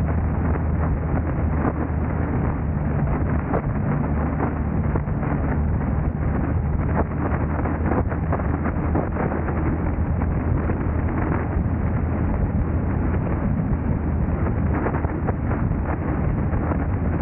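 Car driving: steady road and wind noise with a low hum, broken by many small knocks and rattles.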